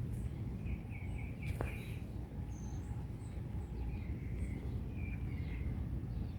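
Small birds chirping in short repeated notes, over a steady low outdoor rumble, with a single sharp click about one and a half seconds in.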